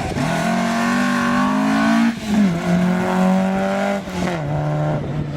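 Rally car engine accelerating hard on a special stage. It climbs in pitch, shifts up about two seconds in and again about four seconds in, then climbs again.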